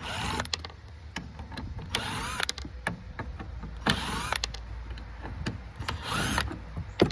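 Small power tool, likely a cordless drill/driver, whirring in four short bursts about two seconds apart, with clicks of handled parts between, as a latch mechanism is taken apart.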